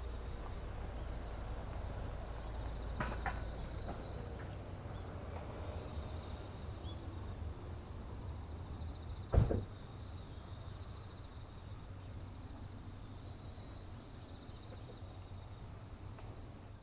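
A chorus of autumn insects, crickets among them, trilling steadily as a constant high ringing. A single dull thump comes about nine seconds in.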